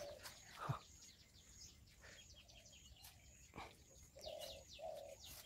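Faint birdsong: small birds chirping over and over in short falling notes, with a soft lower call near the end. A couple of brief rustles or footfalls, one about a second in and one past the middle.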